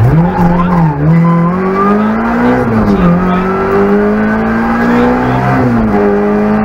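Peugeot 106 Rallye N1 rally car's engine heard from inside the cabin, accelerating hard through the gears. The revs climb and fall sharply at upshifts about one, three and five and a half seconds in, then hold steady near the end.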